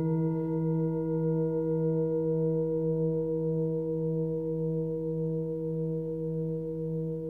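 Forged Nepali singing bowl, 23 cm across and tuned to E at about 161 Hz, ringing on with a low fundamental and several higher overtones, the tone wavering slowly as it gradually fades.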